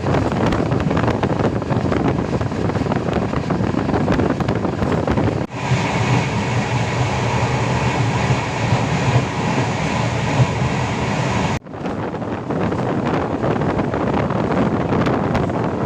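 Express train running at speed, its LHB coach's wheels rumbling on the track with rushing air. About five seconds in the sound cuts to a steadier hum with a few held tones, and about eleven seconds in it cuts back to the rushing rumble.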